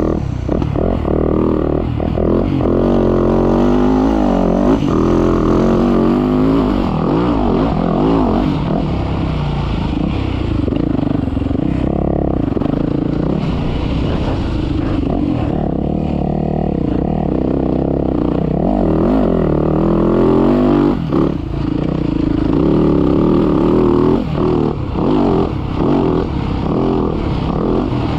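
Dirt bike engine ridden hard around a sand motocross track, revving up and down through the gears, with the throttle briefly chopped a few times in the second half.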